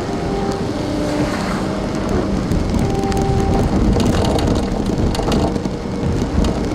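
Steady rain and traffic noise with a continuous low rumble, and short faint tones at changing pitches heard through it.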